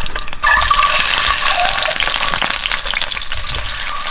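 Hot coconut oil sizzling and crackling in a frying pan as peeled hard-boiled eggs are dropped in. The sizzle swells about half a second in.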